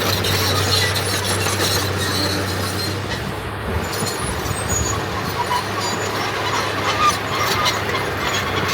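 Diesel engine of earthmoving machinery running steadily under load, with scattered metallic squeaks and clanks; the engine note dips briefly about halfway through.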